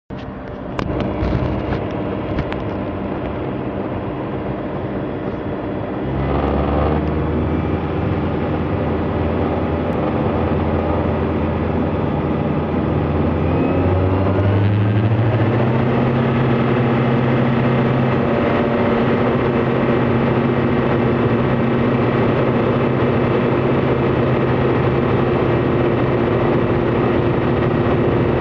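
Light aircraft's piston engine running, with a few clicks in the first seconds. The engine note steps up about six seconds in, then rises in pitch around fourteen seconds as the throttle is opened, and holds a higher steady note.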